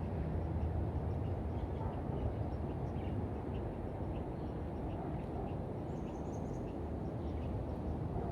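Faint, short bird chirps, with a brief high trill about six seconds in, over a steady low rumble.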